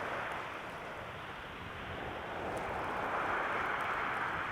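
Sea waves washing on a beach: a steady hiss that swells about three seconds in and then eases off.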